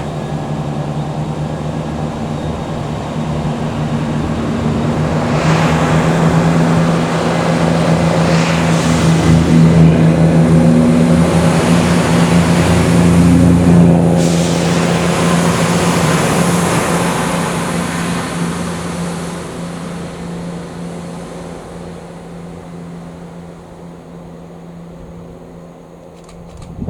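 A train passing: its engine hum and wheel noise grow louder to a peak around the middle, then fade steadily away as it recedes.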